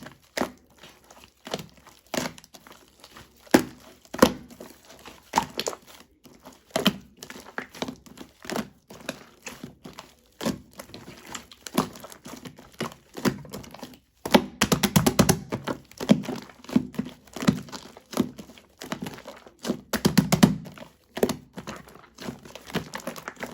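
Shaving foam being squished and pressed by hand, making irregular crackling, squishy pops. Denser runs of quick crackles come about fifteen seconds in and again around twenty seconds.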